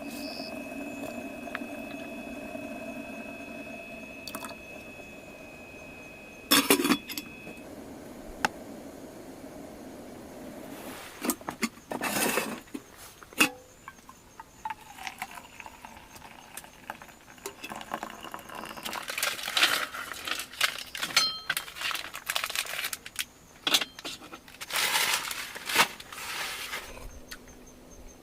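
Metal utensils clinking and clattering during tea making, in a string of sharp knocks and clinks, with a steady hum over the first several seconds.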